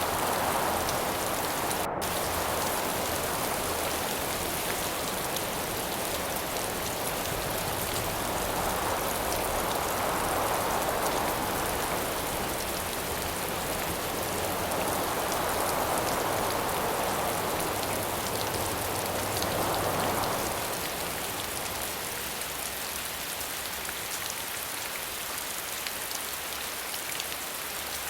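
Steady rain falling, with gusts of wind that swell and fade every few seconds; the gusts die away about two-thirds of the way through, leaving the rain alone and a little quieter.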